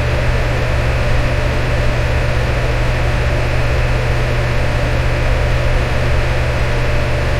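Electric fan running steadily: a constant low hum under an even hiss of moving air, with no changes.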